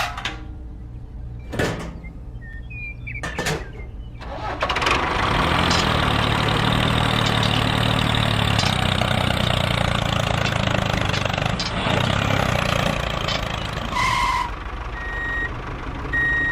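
An engine running steadily for about eight seconds, starting about four seconds in, with a few sharp knocks before it. Short electronic beeps come near the end.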